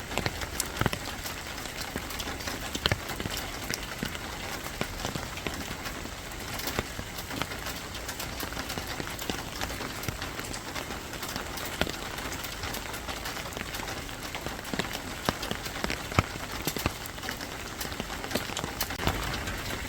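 Steady rain falling, with many individual drops ticking irregularly on a hard surface.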